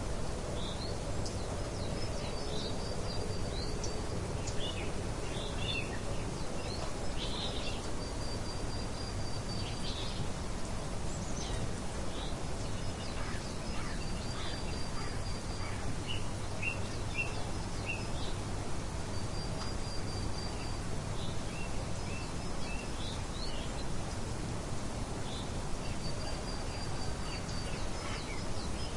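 Steady rain hiss with songbirds chirping over it. One bird repeats a short, high, level trill about every five seconds, among scattered quick chirps.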